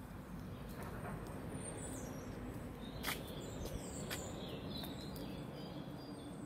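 Small birds chirping and calling in short high notes over a steady low outdoor background noise, with two sharp clicks about three and four seconds in.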